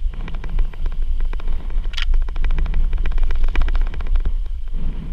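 Bicycle rattling and clattering over a bumpy dirt trail, a steady run of uneven knocks and clicks, with wind rumbling on the microphone.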